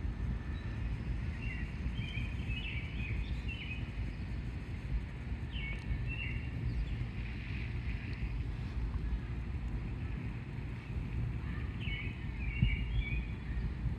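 Low rumble of wind buffeting the microphone, with birds chirping in three short spells.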